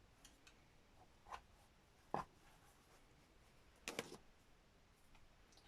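Near silence with a few faint taps and clicks from handling craft materials at a table, the sharpest a quick double click about four seconds in.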